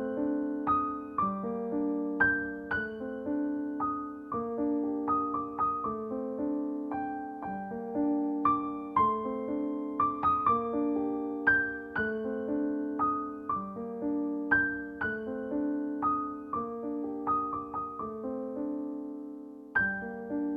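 Background music: a gentle solo piano playing a steady, repeating pattern of notes.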